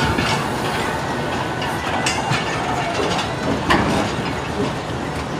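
Pakistan Railways 107 Up passenger train pulling out: a steady rolling rumble of the carriages on the rails, with a few sharp metallic clanks, the loudest about two-thirds of the way through.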